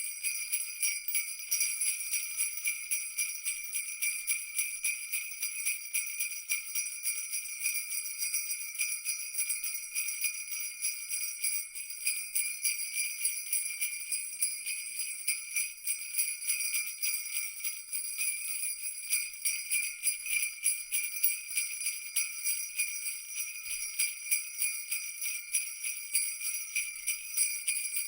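Jingle bells shaken continuously in a fast, dense, even jingle, their bright metallic ringing steady throughout.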